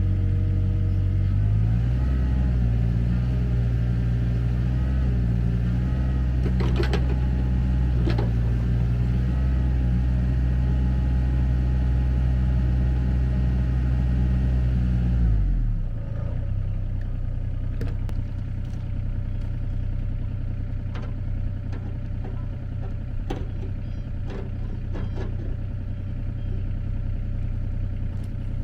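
An engine running steadily, stepping up slightly in speed about a second and a half in, then dropping to a lower, rougher, quieter idle about fifteen seconds in, with scattered clicks and clatter over it.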